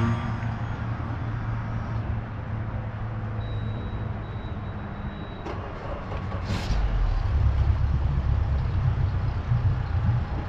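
An engine running steadily with a low hum that grows louder and deeper about seven seconds in. A short hiss comes just before the change.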